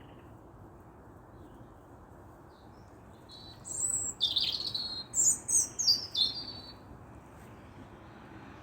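A songbird sings a phrase of high chirps and short falling whistled notes lasting about three seconds, starting a few seconds in, over a steady low background hiss.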